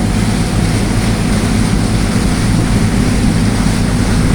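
A boat's engine running steadily, a deep even hum, over a rush of wind and water noise as the boat travels along the river.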